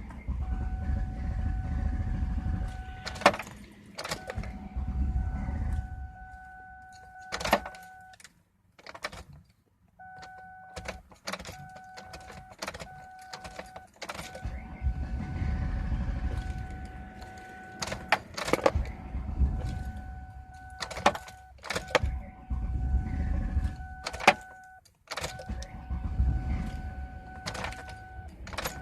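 A Ford being cranked over and over without catching, in several long spells of rumbling with sharp clicks between them. A steady electronic warning tone sounds on and off throughout. The owner suspects the fuel pump.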